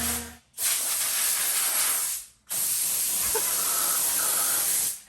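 Gloss paint being sprayed, hissing in three long passes with short breaks about half a second and two and a half seconds in, then cut off near the end.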